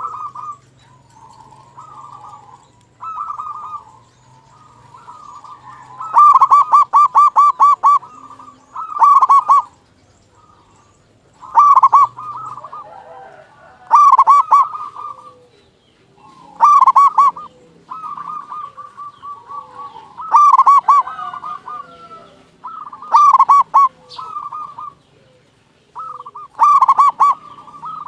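Zebra dove (perkutut) singing: loud phrases of fast, rippling staccato coos repeated about every three seconds, with softer coos in between.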